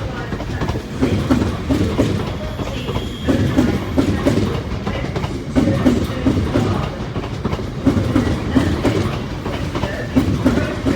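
London Northwestern Railway Class 350 Desiro electric multiple unit (350408 and 350260 coupled) on the move, its wheels clacking over rail joints and pointwork in repeated groups of knocks above a steady running rumble.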